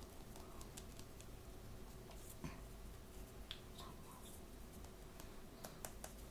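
Faint scattered clicks and light rustles of hands handling small plastic toys and their blind-bag packaging, with a few sharper clicks near the end.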